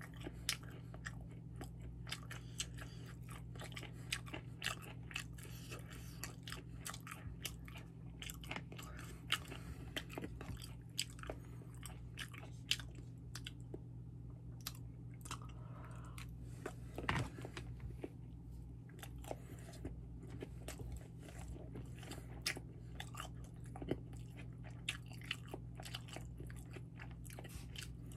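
Close-up chewing and biting of sushi, a dense run of small wet mouth clicks with no words. A low steady hum sits underneath.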